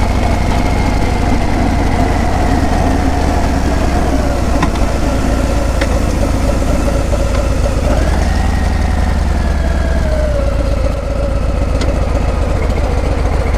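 Harley-Davidson Breakout's V-twin exhaust running steadily as the bike is ridden. The engine note eases slowly down, rises again about eight seconds in, then falls away once more, with a few faint clicks along the way.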